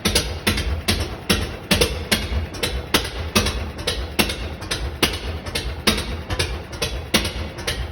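1926 Lister X type single-cylinder stationary engine running steadily, each firing a sharp beat at about three a second over a low rumble.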